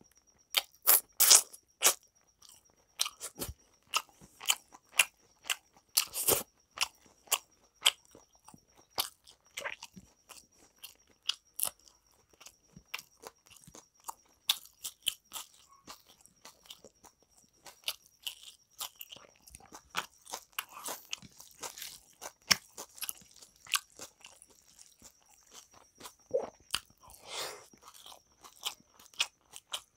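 Close-miked chewing of mouthfuls of rice and chicken curry eaten by hand: irregular wet mouth clicks, smacks and crunches, busiest in the first few seconds.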